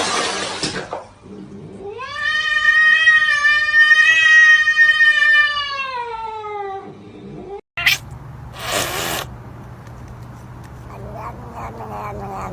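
A cat yowling: one long drawn-out call of about five seconds that rises and then falls in pitch. After a short break and a brief noisy burst, another wavering cat call begins near the end.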